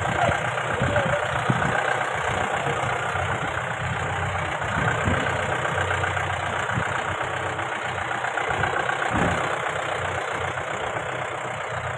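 Mahindra Bolero SUV engine running steadily on a rough off-road hill track, with occasional low thuds.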